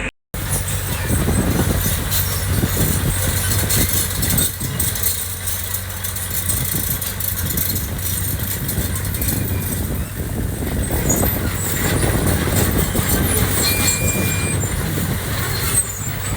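Diesel engine of heavy earthmoving equipment running steadily, with irregular clatter and scraping over it, and a short single beep near the end.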